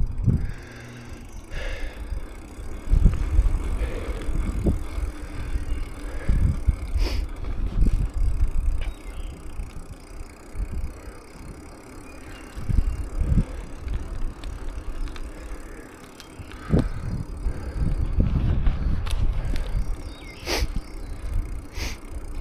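Bicycle being ridden, with an uneven low rumble of wind buffeting the microphone that swells and fades, and a few sharp clicks, two of them near the end.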